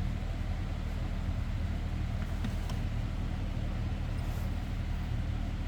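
An engine idling steadily, with a couple of faint clicks about two and a half seconds in.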